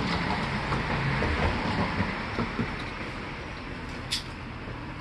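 Steady rumbling, grinding noise of a tool wheel working metal, easing off slowly, with faint scattered clicks and a brief high hiss about four seconds in.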